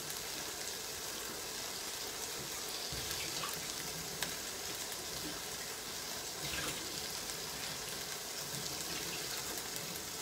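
Spring onions and pieces of meat frying in a stainless steel sauté pan: a steady sizzle, with a faint click or two from the pan.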